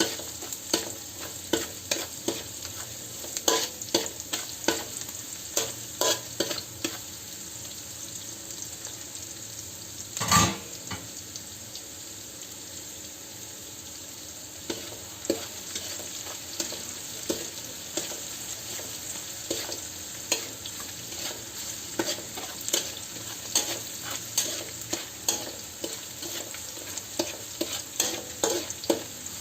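Chicken stir-frying in a hot pan: a steady sizzle with frequent clicks and scrapes of the spatula stirring against the pan, and one louder knock about ten seconds in.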